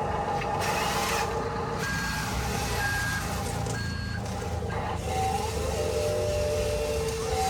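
Reversing beeper of a toy RC construction truck sounding three short beeps about a second apart, over the steady running noise of the truck.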